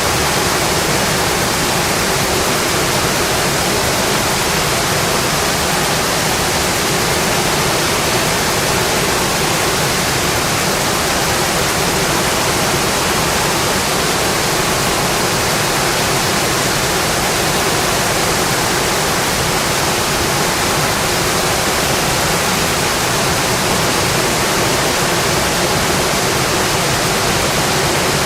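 Heavy rain drumming steadily on a metal roof, a dense, unbroken hiss.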